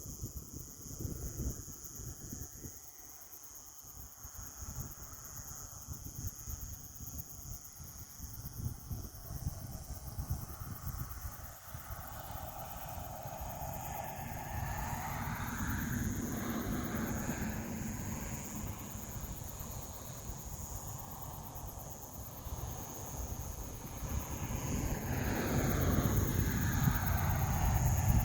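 A distant engine passing by: its sound swells from about halfway through with sweeping, shifting pitch and gets louder toward the end, over low wind rumble on the microphone.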